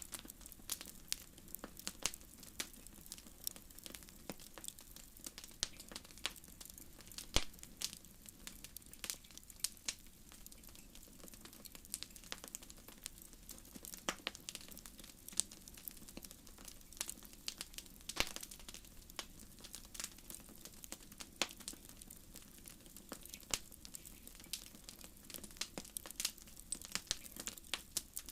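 Wood fire crackling, with irregular sharp pops and snaps over a steady low hiss of burning.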